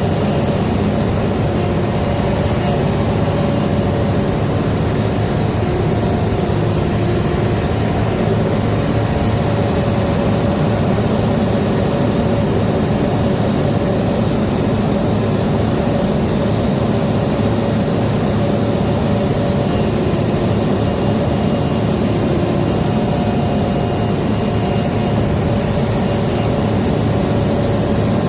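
Heavy diesel engine of a Caterpillar 395 hydraulic excavator running steadily as it works, a constant loud drone with a few steady tones over it.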